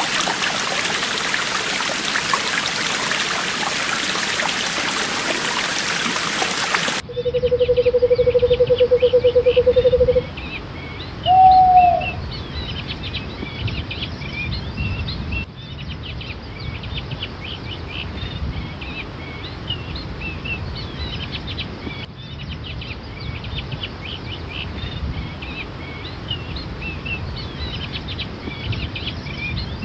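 Running water, a stream, as an even rush for the first several seconds, then a sudden cut to a forest bird chorus of many small chirps and calls. Soon after the cut, one low, steady trilling call lasts about three seconds, followed by a single short rising-and-falling call, over a low rumble.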